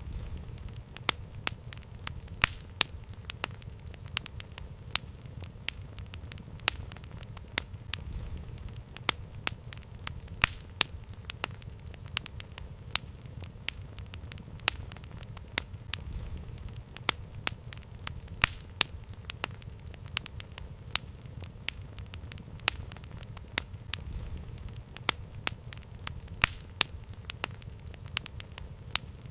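Campfire burning: irregular sharp crackles and pops of burning wood, several a second, over a steady low rumble of the flames.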